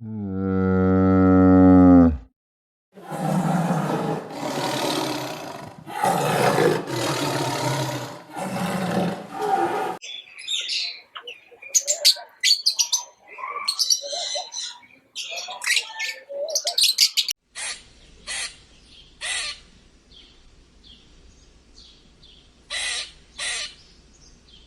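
A sequence of animal calls: a cow's low moo ending about two seconds in, then about four rough roars, then a run of quick bird chirps, and finally a few short, sharp calls.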